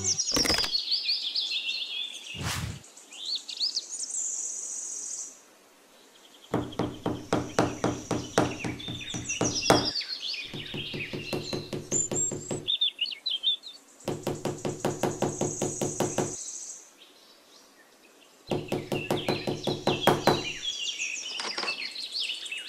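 Small hammer tapping a thin wooden post in quick runs of light knocks, about five a second, four runs in all, with birds chirping.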